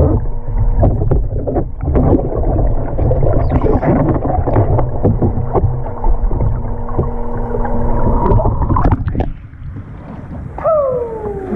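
Kayak paddling and rolling in a swimming pool: water splashing and churning against the boat, with a faint steady hum underneath. The splashing drops away about nine seconds in, and near the end a short tone slides downward.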